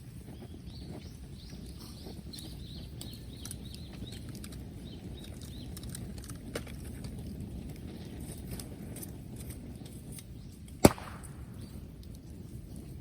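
Bonfire of bamboo and wood burning with a steady low rumble and scattered crackling, with one sharp, loud crack near the end, typical of a bamboo section bursting in the heat.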